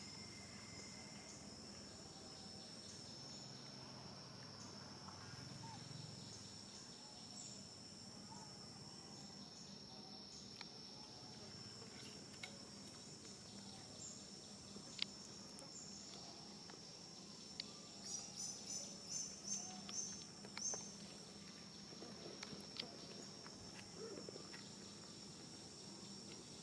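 Insects, such as crickets, making a steady high-pitched drone. About two-thirds of the way through comes a quick run of eight or so short high chirps.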